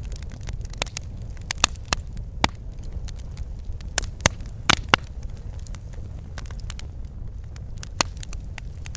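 Wood fire crackling in a fireplace: irregular sharp pops and snaps over a steady low rumble of the flames, with a few louder pops about four to five seconds in.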